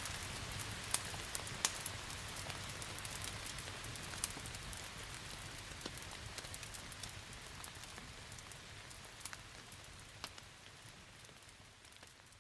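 Steady rain hiss mixed with the sharp crackles and pops of a wood fire in a fireplace, the whole sound fading out gradually to the end.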